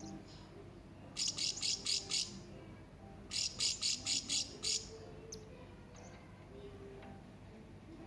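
Hanging parrot (serindit) calling: two quick bursts of six or seven sharp, high chirps, about a second and a half apart.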